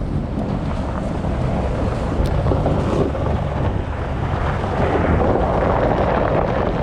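A vehicle running steadily with a low rumble, with wind buffeting the microphone.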